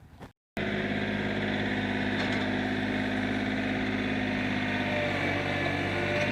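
An engine running steadily at a constant speed, cutting in abruptly about half a second in.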